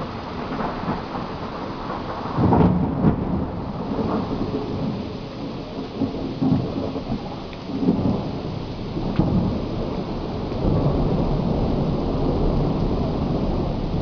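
Thunder rolling over steady rain during a thunderstorm. The loudest crack-and-rumble comes about two and a half seconds in, smaller rumbles follow, and a long low rumble swells again near the end.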